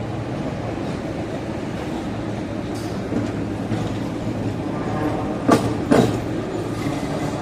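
Steady low rumble of a passing vehicle, with two sharp clacks about half a second apart near the end.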